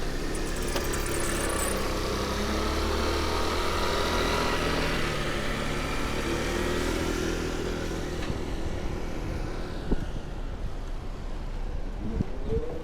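Street traffic: a motor vehicle's engine running close by over a steady hiss of road noise, its pitch drifting slowly. A brief high whine comes in the first couple of seconds, and another engine begins to rise in pitch near the end.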